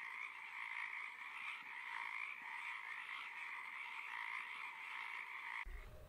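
Frog calling in a steady, unbroken call that cuts off abruptly near the end.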